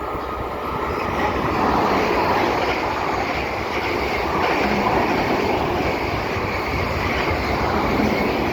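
A train running past close by: a steady rumble and rail noise that swells about a second in and stays loud.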